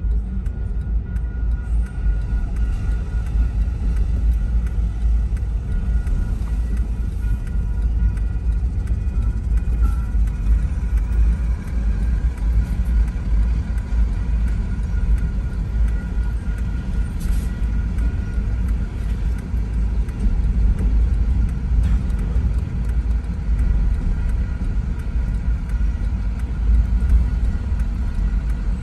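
Double-stack container freight train rolling through a grade crossing, a steady low rumble heard from inside a car.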